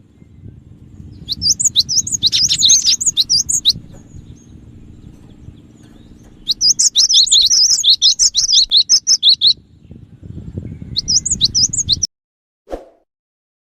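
Cinereous tit (gelatik batu) calling in three bursts of rapid, high chirping notes over a low steady hum. The recording cuts off suddenly near the end, followed by a brief low thump.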